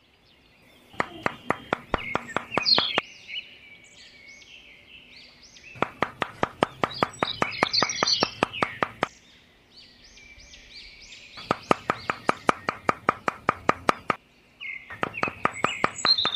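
Small wooden stick posts being tapped into the ground: rapid series of light sharp taps in four bursts of a couple of seconds each. Birds chirp and twitter throughout.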